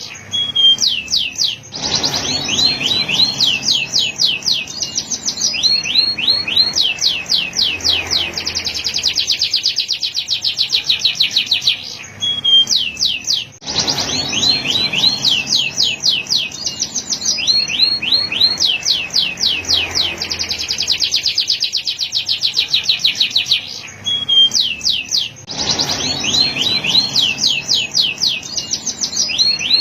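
Male domestic canary singing a continuous song of fast trills, each a run of rapid repeated high notes that changes to another run every second or two. The song breaks off briefly twice, and the same sequence of trills comes round again about every twelve seconds.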